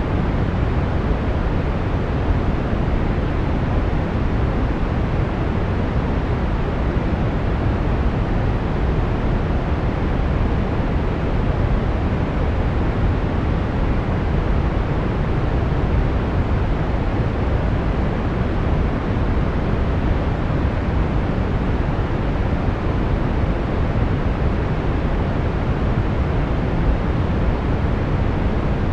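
Steady brown noise: an even, deep rushing hiss, strongest in the bass and dimmer toward the treble, with no changes.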